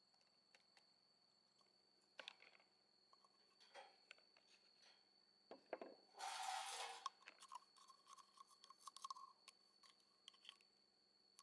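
Near silence with a faint steady high-pitched whine, scattered small clicks and knocks, and a brief scraping rustle a little past the middle.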